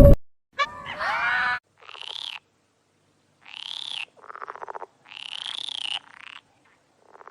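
Frogs calling: a short call with several gliding pitches, then a series of pulsed, rattling croaks of about half a second to a second each, some higher-pitched and some lower, separated by short silences.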